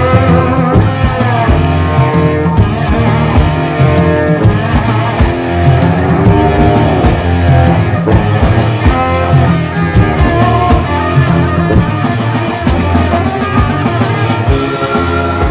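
Full-band rock music from a late-1970s studio recording with no vocals: electric guitar over bass guitar and a drum kit.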